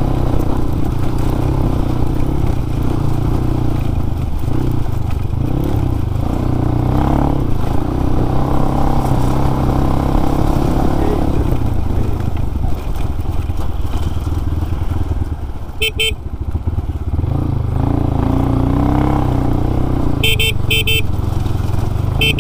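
Crossfire RM250 motorcycle engine running under way, a steady low rumble that rises and falls with the throttle, with wind on the microphone. A vehicle horn gives a short toot about two-thirds of the way through and a quick series of toots near the end.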